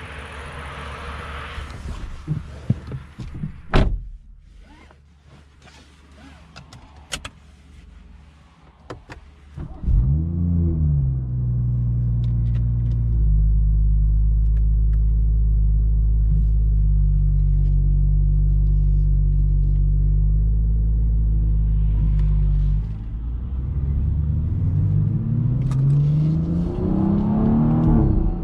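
BMW M140i's 3.0-litre turbocharged straight-six started about ten seconds in, after a few clicks and knocks. It flares up on starting, settles into a steady idle, then is revved with rising pitch near the end.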